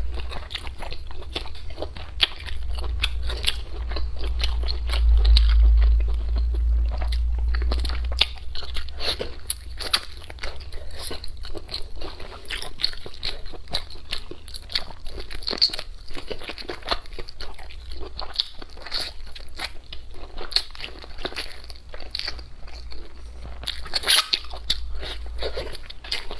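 A person chewing and biting braised pig intestines and braised pork close to a clip-on microphone, with many quick, irregular mouth clicks. A low rumble runs under the chewing from about two to eight seconds in.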